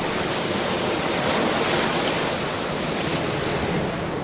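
Ocean surf: a continuous rush of breaking waves, swelling slightly in the middle.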